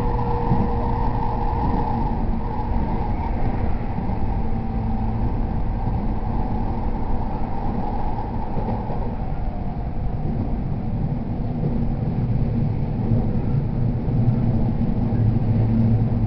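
Ride sound inside a JR East E231 series electric train car running between stations: a steady rumble of wheels on the rails with a motor whine that fades out about halfway through.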